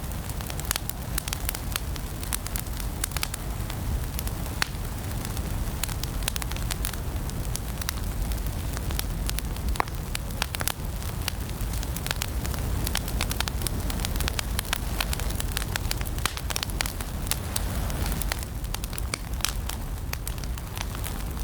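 Fire crackling in a fireplace: a steady low rumble of flames with frequent, irregular sharp pops and snaps.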